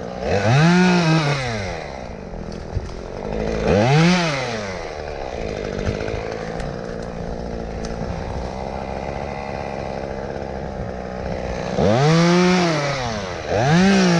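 Chainsaw idling, revved up briefly four times, each rev rising in pitch and falling back to idle.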